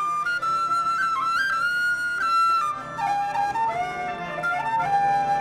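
Music: a flute-like wind instrument plays a stepwise melody that drops to a lower register about halfway through and ends on a held note, over a low accompaniment.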